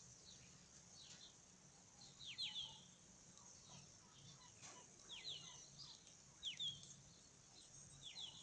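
Bird chirps: short falling notes in quick clusters of two or three, about four times, over a steady faint high hiss.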